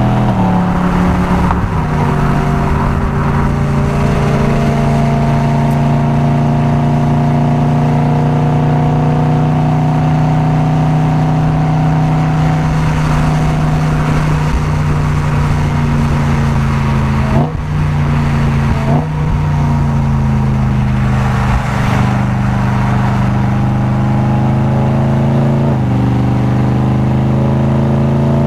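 Tuned track car's engine and exhaust running under load, with the pitch mostly holding and drifting slowly. Two brief breaks in the note come about two-thirds of the way through, and the pitch climbs again near the end.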